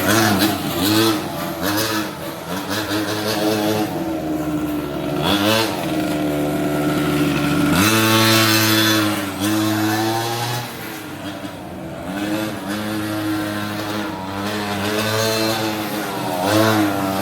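Small two-stroke petrol engine of a 5th-scale RC monster truck revving up and down repeatedly. It holds a high, steady run from about 8 to 10 seconds in, then drops back and revs again near the end.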